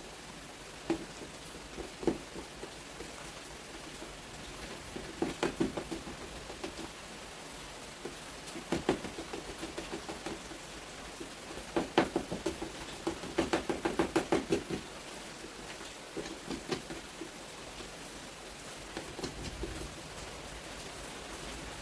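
Steady rain hiss with several bursts of rapid tapping. The longest and loudest run of quick taps comes about twelve to fourteen seconds in.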